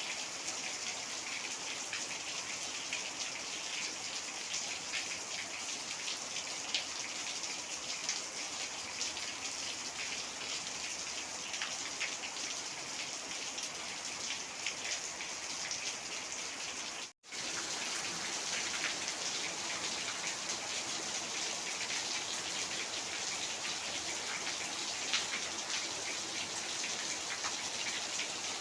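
Heavy rain falling steadily, a dense patter of drops on a surface. The sound cuts out completely for a split second about two-thirds of the way through.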